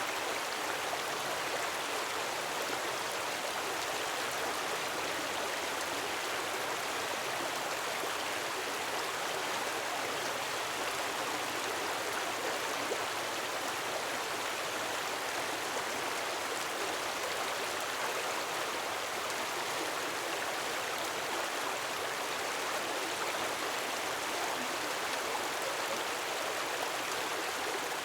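Gentle waterfall: a steady, unbroken rush of falling water.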